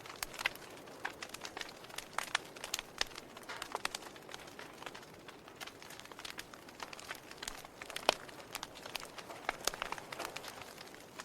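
Wood fire crackling: irregular snaps and pops of burning wood over a soft hiss, one sharper pop about eight seconds in.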